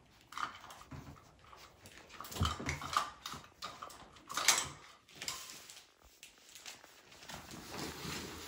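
Young Aussiedoodle puppies moving and playing, with scuffling, small puppy vocal sounds and irregular knocks and clatters; the sharpest knock comes about four and a half seconds in.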